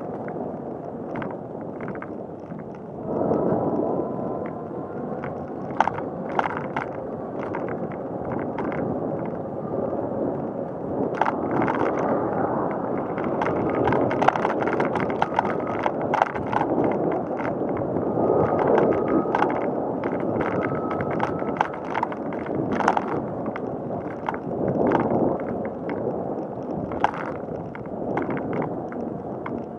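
Bicycle rolling along a paved path: steady tyre and road noise with frequent clicks and rattles from the bike going over bumps.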